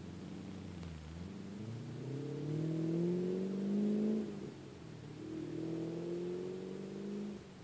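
A vehicle engine accelerating: its pitch climbs steadily, drops abruptly at a gear change about four seconds in, then climbs again through the next gear before fading near the end.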